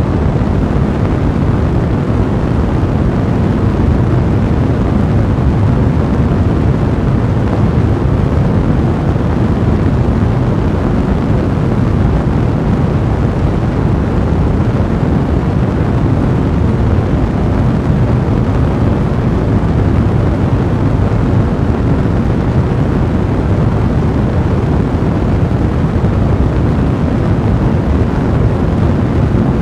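Fireplace fire burning with a steady, deep rumble of flames.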